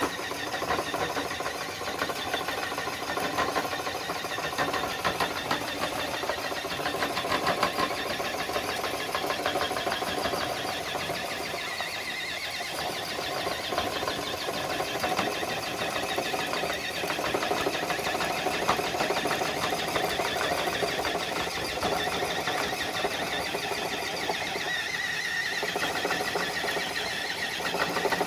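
Electric drivetrain of an Axial Base Camp RC crawler truck whirring and chattering steadily as it pulls a dead-weight sled.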